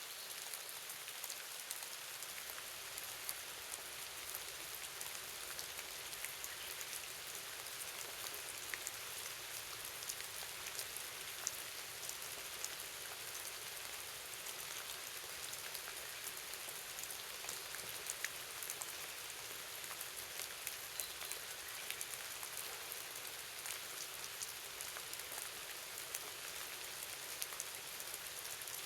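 Steady rain falling, with many individual drops ticking sharply on surfaces close by.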